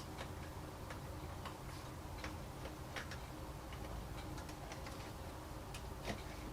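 Light, irregular clicks and ticks from hand tools working on a car's bumper cover, a few a second, over a steady low background hum.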